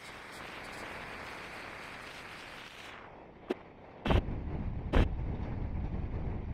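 Steady running noise of a moving passenger train heard from an open coach window. About four seconds in, wind begins buffeting the microphone as it is held out beside the coach: a low rumble with two loud thumps about a second apart.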